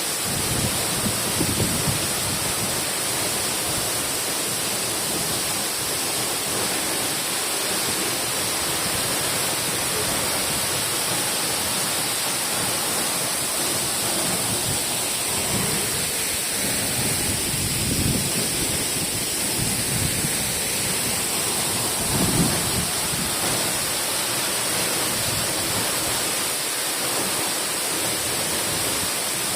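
Waterfall: the steady roar of falling water, with a few brief deeper surges, the strongest about three-quarters of the way through.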